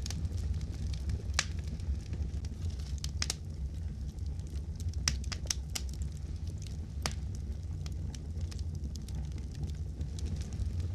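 Wood fire crackling in a fireplace: a steady low rumble of the burning logs with constant small crackles and a handful of sharper, louder pops scattered through.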